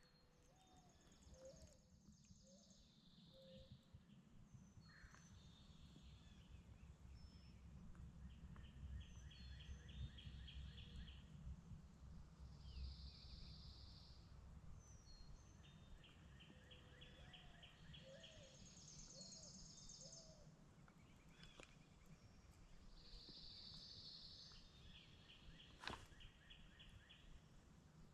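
Faint dawn birdsong: several songbirds repeating short trilling phrases over a low, steady outdoor rumble, with one sharp click near the end.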